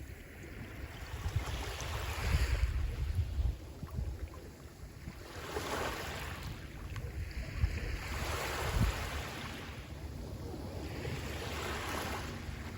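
Sea waves washing onto the shore in about four slow surges, each swelling to a rush and then fading.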